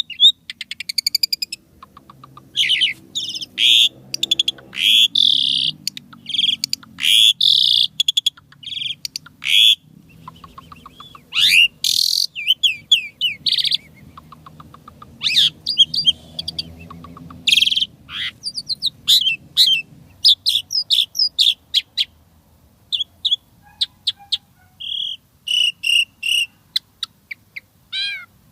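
Asian pied starling (jalak suren) singing a long, varied song: loud whistles, rapid clicking trills and short harsh notes in quick succession, broken by brief pauses.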